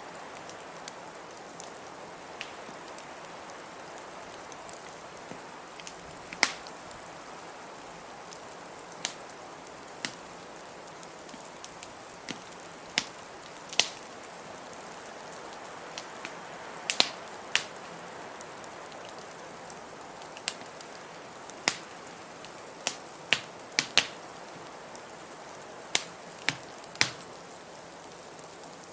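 Wood fire crackling in a fireplace, with sharp pops at irregular intervals over a steady hiss of blizzard wind.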